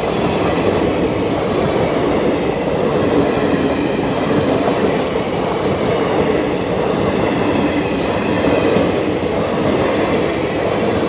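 Indian Railways passenger coaches passing close at speed: a steady, loud rush of wheels running on the rails.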